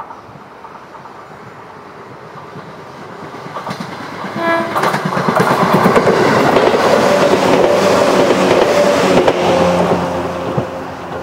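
A large vehicle passing: a loud, rushing noise that builds over a few seconds, peaks in the middle and fades toward the end, with a brief pitched tone about four and a half seconds in.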